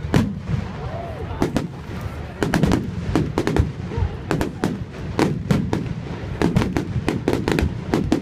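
Fireworks display: many sharp bangs and cracks going off in quick, irregular succession over a low rumble, with crowd voices beneath.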